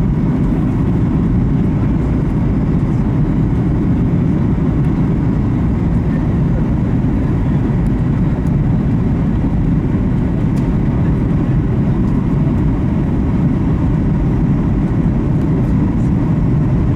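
Boeing 737 MAX 8 cabin noise on descent: a steady, loud low rumble of its CFM LEAP-1B engines and the airflow past the fuselage, heard from inside the cabin.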